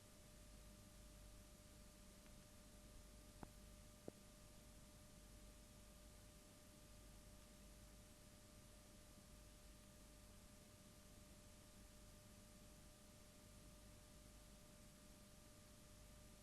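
Near silence: faint steady hiss with a faint steady hum-like tone, and two tiny clicks a little over three seconds in.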